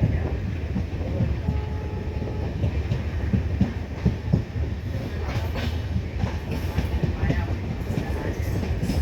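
Passenger express train rolling along the station track, with a steady low rumble and the wheels clicking over rail joints.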